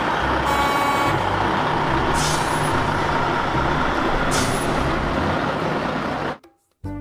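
Heavy-duty wrecker tow truck's diesel engine running as the truck drives past, with two short air-brake hisses about two seconds apart. The sound cuts off abruptly near the end.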